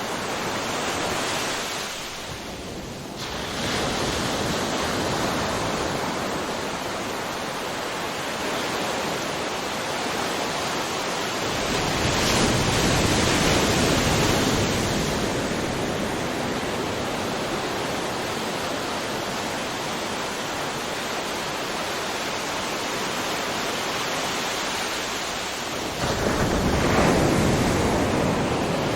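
Ocean surf: a steady wash of breaking waves, with one wave building louder about halfway through and another breaking suddenly near the end.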